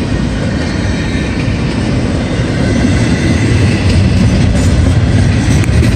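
Double-stack intermodal freight well cars rolling past, a steady heavy rumble of steel wheels on rail that grows a little louder about halfway through.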